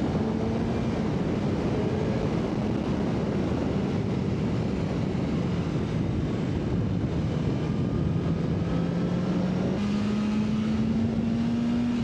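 BMW S1000RR inline-four engine running at a steady road speed, with wind rushing over the helmet microphone; the engine note holds fairly steady and climbs a little in the last few seconds.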